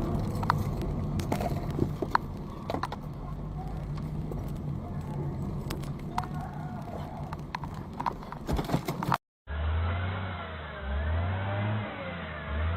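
A car engine running steadily, with scattered clicks and knocks. About nine seconds in, the sound cuts out briefly and switches to a rougher recording of an engine pulsing in low surges, with a tone wavering up and down above it.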